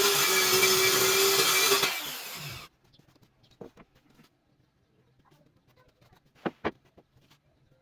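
Homemade table saw running and cutting wood, with a steady motor whine under the cutting noise. The sound dies away and stops abruptly nearly three seconds in. Faint handling follows, then two quick knocks.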